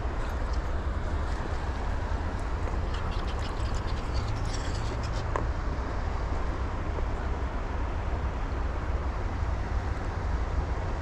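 Steady rush of river current with a low rumble of wind on the microphone, and a few faint clicks about three to five seconds in.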